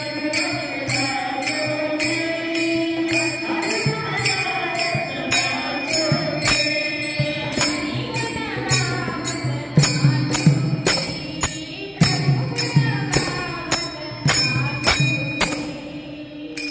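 Marathi devotional bhajan, a gaulan sung by a woman, with hand cymbals keeping a steady beat about every 0.7 s and a drum underneath. The music fades out near the end.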